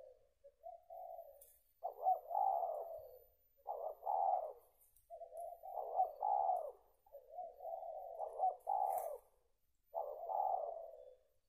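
Spotted dove cooing: a run of low, hoarse coo phrases, about one every one and a half to two seconds.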